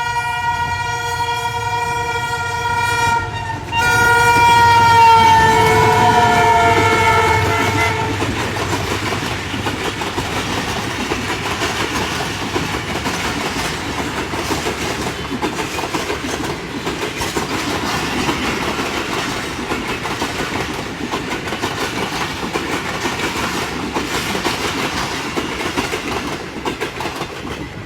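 A passing train's horn sounds a long blast, breaks off briefly, then sounds again and drops slightly in pitch as it goes by. For the rest of the time the train's cars rumble past with a steady clickety-clack of wheels on rail joints.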